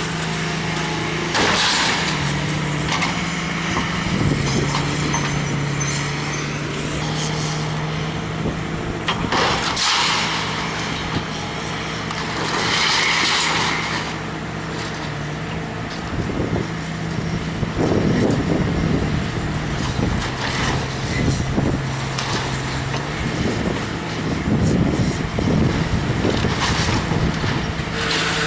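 Large diesel engine of a demolition excavator running under load, its pitch stepping up and down as it works, with short bursts of hissing and crunching noise.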